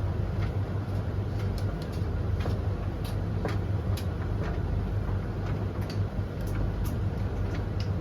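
Three tumble dryers running at once: a steady low motor-and-drum hum with scattered, irregular light clicks and taps from the laundry tumbling in the drums.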